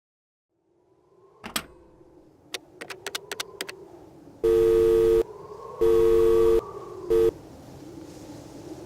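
A few clicks, then a steady two-note telephone tone beeping three times, the third beep cut short.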